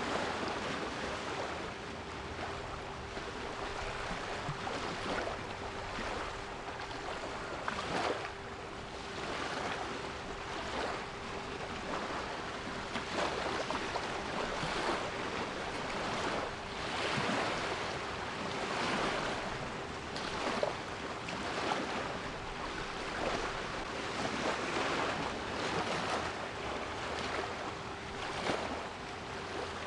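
Sea waves washing in and breaking in repeated surges, with a steady 396 Hz pure tone held underneath.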